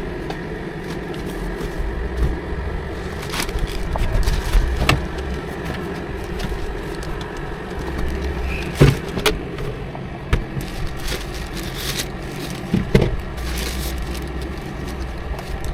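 Semi-truck engine running, heard from inside the cab as a steady low rumble, with scattered clicks and rattles.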